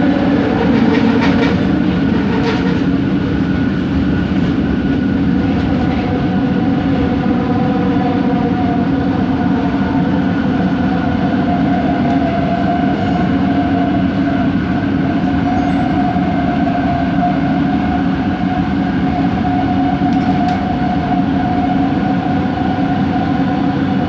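Bombardier Innovia ART 200 train running at speed, heard from aboard: a steady rumble with a constant whine of several steady tones from its linear induction motors, the unusual motor noise this train is known for, and a few light clicks in the first seconds.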